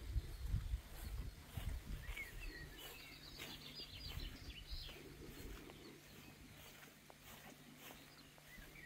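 Small birds chirping faintly, a short flurry of calls about two to four seconds in, over a low rumble that dies away in the first couple of seconds.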